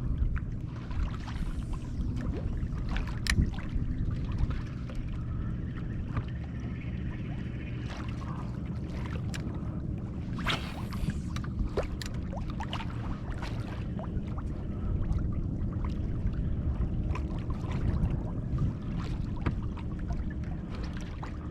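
Water lapping and sloshing around a kayak on the move, with scattered small knocks and splashes from paddle or gear over a steady low rumble.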